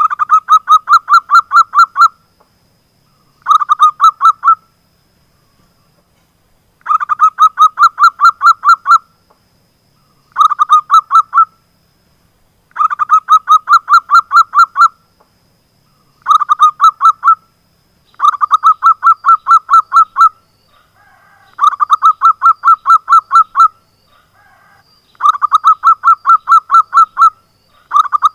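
Zebra dove (perkutut) singing: loud phrases of quick, evenly spaced cooing notes, each lasting one to two seconds, repeated about ten times with short pauses between.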